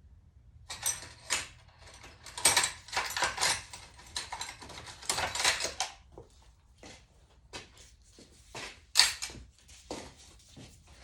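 Metal hand tools and small engine parts clinking and rattling during engine disassembly. There is a dense run of clatter from about two to six seconds in, then scattered single clicks, with one sharp click near the end the loudest.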